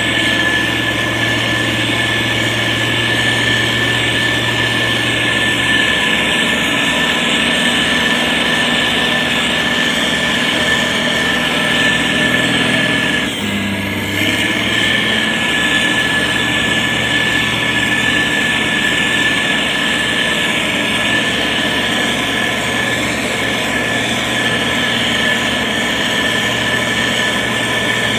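SANY STG190C-8S motor grader's diesel engine running steadily while it works the soil, with a steady high whine over the engine note. About halfway through the sound dips briefly and the engine note shifts before settling back.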